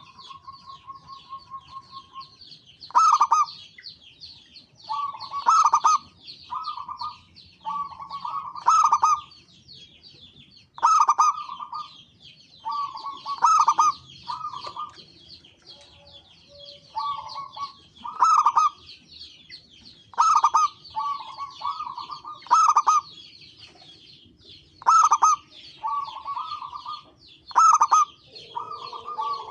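Zebra dove (perkutut) cooing over and over: each phrase is a strong note followed by a quick run of shorter notes, repeated every two to three seconds, over a constant high-pitched twittering.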